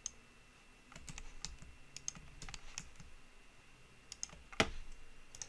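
Computer keyboard keys tapped at an irregular pace, quiet scattered clicks, with one louder click about four and a half seconds in.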